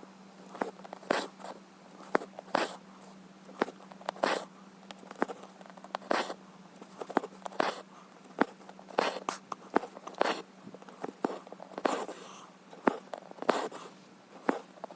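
Needle and embroidery floss worked through cross-stitch fabric: sharp pokes of the needle through the cloth and short zipping swishes of thread being pulled through, at an irregular pace of roughly one or two a second, over a faint steady hum.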